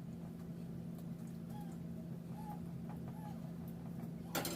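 Faint chickens clucking in the background a few times over a steady low hum, with one short sharp clatter near the end.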